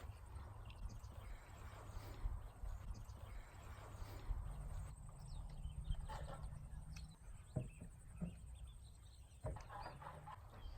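Quiet rural outdoor ambience: a steady low rumble with scattered faint bird chirps, and a couple of soft knocks about three-quarters of the way through.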